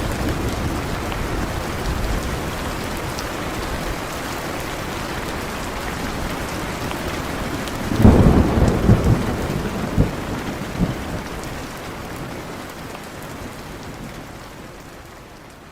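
Heavy rain falling steadily, with a sudden crack and rumble of thunder about halfway through, crackling for a few seconds. The rain fades away near the end.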